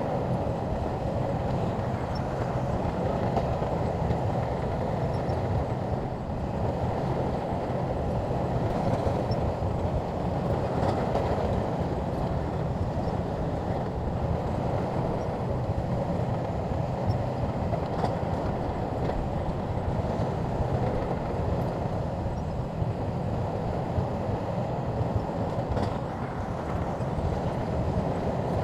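SHANTUI crawler bulldozer's diesel engine running steadily under load, a continuous low drone with occasional faint clanks.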